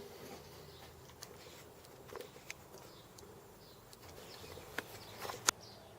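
Faint background with a few scattered light clicks and taps, the sharpest two close together near the end.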